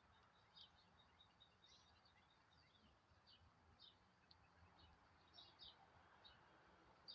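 Faint, short, high-pitched bird chirps, a dozen or so scattered irregularly over a quiet background hiss.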